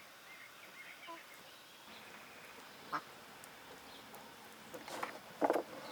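Short animal calls, a few of them, the loudest cluster near the end.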